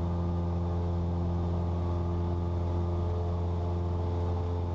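Cessna 172's piston engine and propeller droning steadily at climb power, heard inside the cabin as an even low hum.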